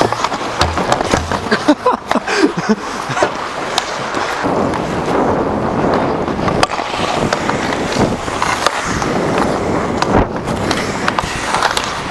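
Ice hockey skate blades carving and scraping across the ice, with scattered sharp clicks and knocks.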